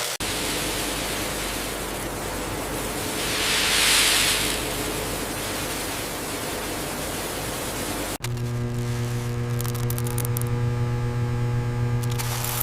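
Factory machinery noise. First a steady hiss that swells louder about four seconds in, then, after an abrupt cut about eight seconds in, a steady machine hum.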